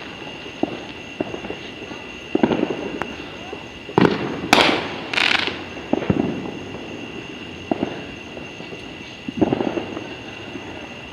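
Fireworks going off around the neighbourhood: about eight irregular bangs and booms, the loudest a cluster of hissing, crackling bursts about four to five seconds in. A steady high-pitched tone lies underneath.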